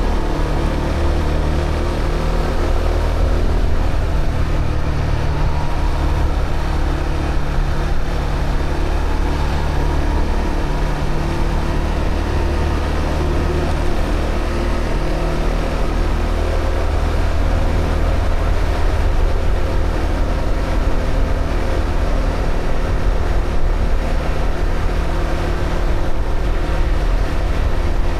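Honda CB125R single-cylinder engine through its stock exhaust, running steadily under way, its pitch shifting a few times as the throttle and gears change, over a constant rush of wind noise.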